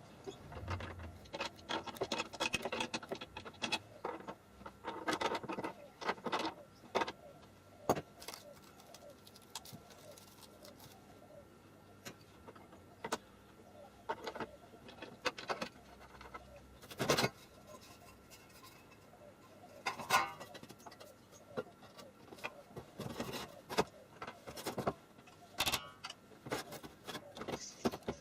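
Irregular clicks, knocks and light rattles, as of hard objects being handled, coming in scattered clusters with short quiet gaps between.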